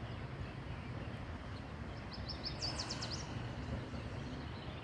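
A songbird sings one short phrase of rapid, high, down-sweeping notes about halfway through, over steady low outdoor background noise.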